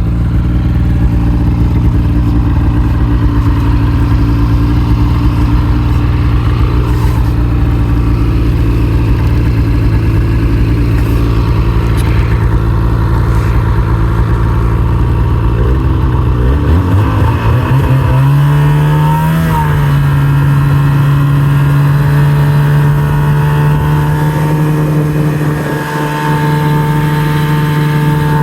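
Snowmobile engine running steadily under way, then revving up about two-thirds of the way through and holding at the higher speed.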